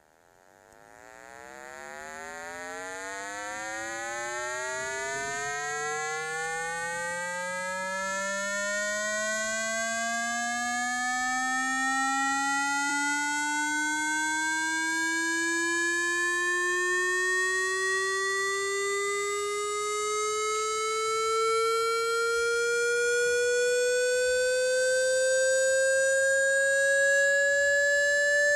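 Water filling a vessel, making a ringing tone that rises slowly and steadily in pitch as the air space above the water shrinks.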